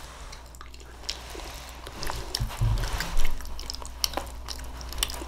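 Close-miked mouth sounds of someone eating: chewing with wet clicks and smacks, sparse at first and busier from about two seconds in.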